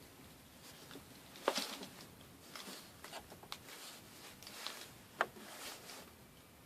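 Marantz CD-65MKII CD player's disc mechanism clicking and ticking with no disc loaded: a series of irregular clicks, the loudest about a second and a half in and again a little after five seconds. The owner takes it as probably normal for an old CD player.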